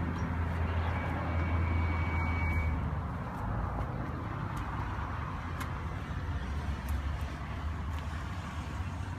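A steady low rumble of a running vehicle engine, with a few faint clicks.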